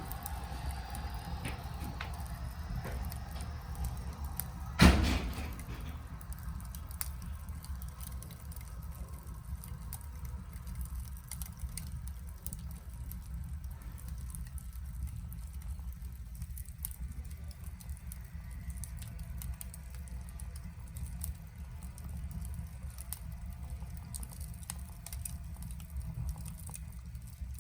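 Wood fire burning in the firebox of a wood-fired bath boiler: a steady low rumble with scattered small crackles and pops. There is one loud knock about five seconds in.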